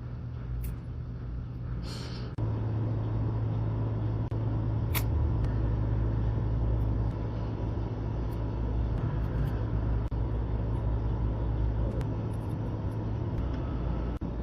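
A steady low mechanical hum that grows louder about two and a half seconds in, with a few faint clicks over it.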